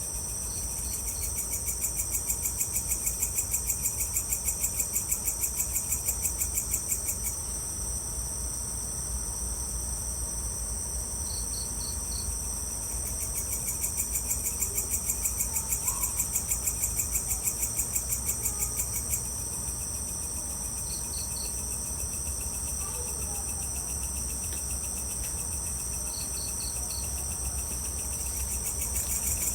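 Evening chorus of crickets and other insects: a continuous high shrill with a loud rapid pulsing trill that runs for several seconds, stops, and starts again. Short groups of three or four high chirps come every few seconds over it, with a steady low rumble beneath.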